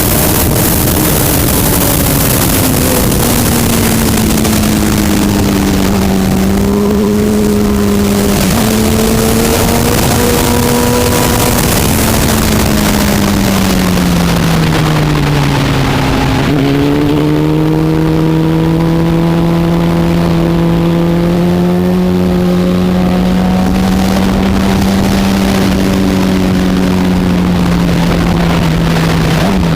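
A superbike's engine heard continuously, running at moderate, fairly steady revs under a hiss of wind noise. The pitch sags gradually to its lowest about halfway through, then picks up and holds steady at a lower note.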